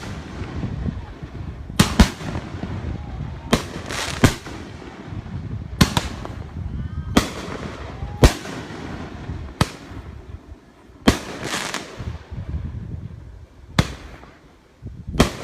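Fireworks going off: about a dozen sharp bangs at irregular intervals, some in quick pairs, over a steady low rumble.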